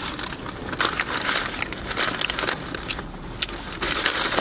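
Close-miked chewing of food, with irregular wet clicks and crackles from the mouth.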